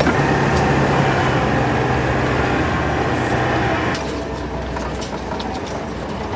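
A 4x4 vehicle's engine running steadily under noise from the moving vehicle. About four seconds in, the sound drops a little and becomes duller.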